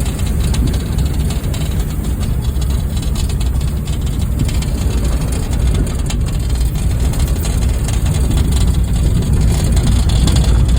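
Honda Fit engine running steadily as the car is driven off-road, a constant low-pitched engine noise with no change in pace.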